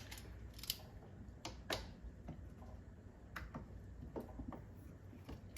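Irregular light clicks and ticks of hand tools and small metal parts while glow plugs are being taken out of a 7.3 Powerstroke diesel engine.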